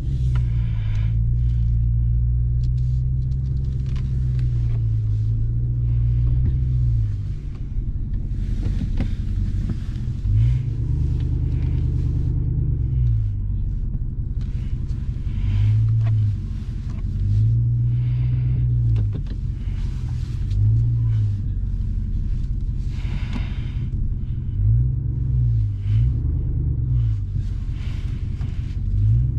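2021 Ram 1500 TRX's supercharged 6.2-litre Hemi V8 running on the move: a low rumble whose pitch rises and falls again and again as the revs climb and drop, with shorter, quicker swells in the second half.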